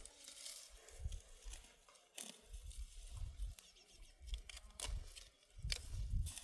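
Irregular rustling and sharp snaps of dry vegetation being handled, with uneven low rumbles in between.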